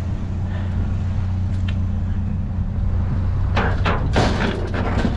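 Metal fluorescent light fixtures being handled, with a run of clattering and scraping knocks starting about three and a half seconds in, over a steady low rumble.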